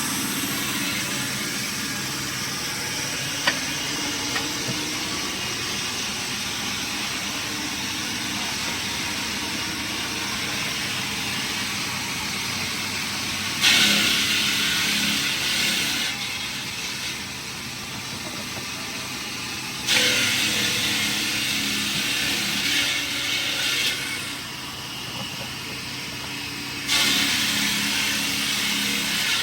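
Steady machinery noise with three loud hissing bursts, each lasting a couple of seconds and starting suddenly, about six to seven seconds apart.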